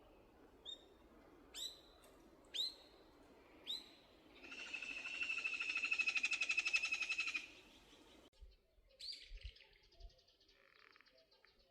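Wild birds calling: four short, sharp high notes about a second apart, then a loud, rapid trill lasting about three seconds, followed by fainter scattered chirps.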